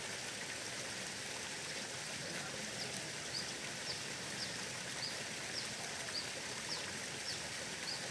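Steady rushing outdoor hiss. From about three seconds in, a bird calls repeatedly in short, high, falling chirps about twice a second.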